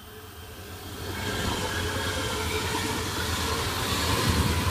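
A train approaching, its noise swelling over the first second or so, then running past with a steady low rumble and a rushing hiss.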